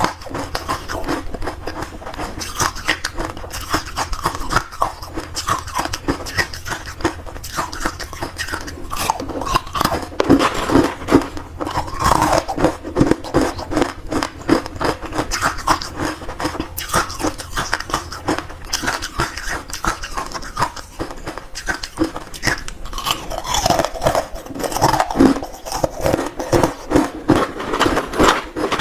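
Crunchy ice being bitten and chewed close to the microphone: a rapid, irregular run of sharp crunches and cracks.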